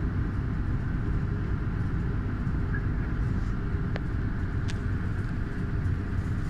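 Empty passenger coaches rolling slowly as a diesel locomotive pushes them back, a steady low rumble. Two short sharp clicks are heard about four and nearly five seconds in.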